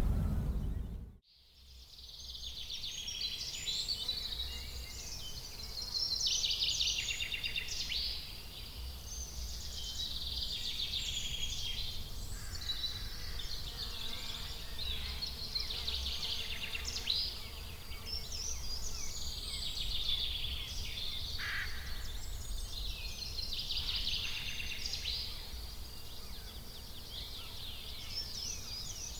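Several small birds chirping and singing in quick, varied trills and chirps over a low steady rumble. This starts after a sudden drop to silence about a second in.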